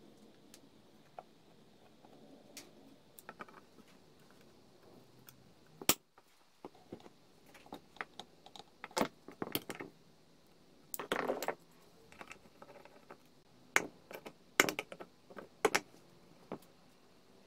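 Irregular clinks, clicks and knocks of small metal parts and tools being handled and set down during work on a rusty vintage hand-crank grinder, with a few louder knocks spread through.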